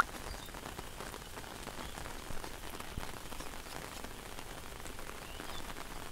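Steady rain falling on floodwater and wet ground, a fine even patter of drops. A single sharp click at the very start.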